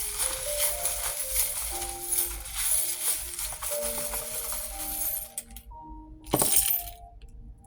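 A handful of divination charms rattled and shaken together for about five seconds, then one brief loud clatter about six seconds in, over soft background music with slow held melody notes.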